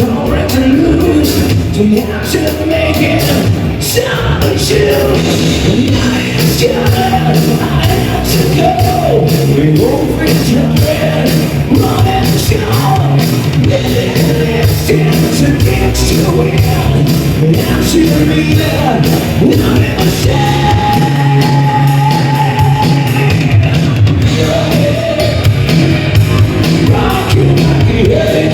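Live rock band playing loudly with a singer, drums keeping a steady beat.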